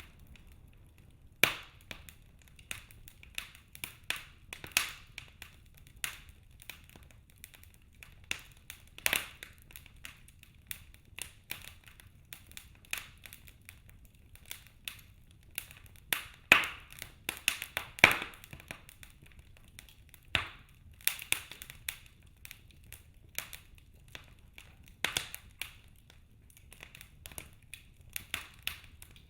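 Wood logs burning in a fireplace, crackling with irregular sharp pops and snaps over a low hiss. The loudest pops come about a second and a half in, and twice in close succession past the middle.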